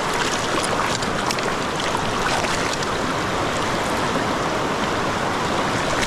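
River current rushing steadily around a wading angler, an even hiss of flowing water.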